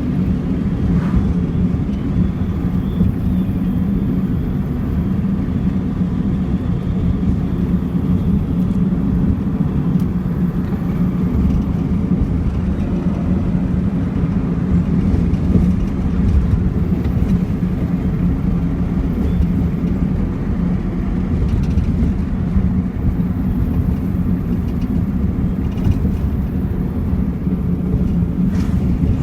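Toyota Mark II's 1G straight-six engine running at a steady speed, its low even note holding without revs rising or falling.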